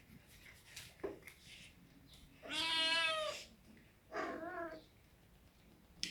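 Domestic cat meowing twice: one long meow, then a shorter one about a second later.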